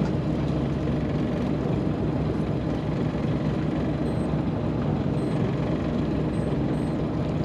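Fishing boat's engine running steadily, a low even drone, with a few faint high beeps about four seconds in.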